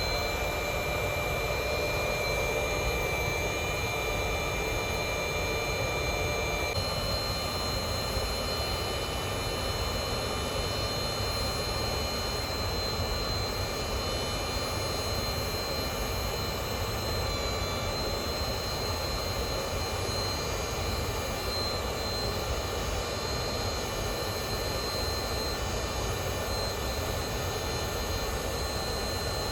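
A motor spinning up and then running steadily with a whine made of several high tones, over a steady rushing noise; the whine shifts slightly about seven seconds in.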